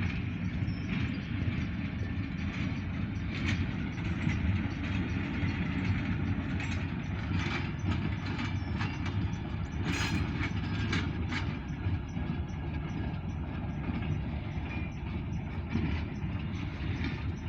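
Alco diesel locomotive No. 85 running light, with no cars: a steady low diesel rumble, with irregular clicks and clanks from the wheels and rail through the whole stretch.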